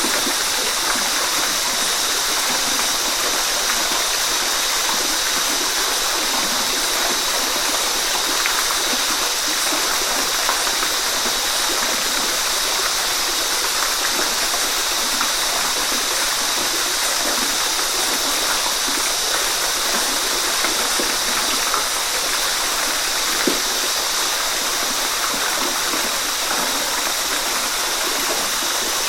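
Waterfall: a steady rush of falling water, with small splashes and gurgles throughout.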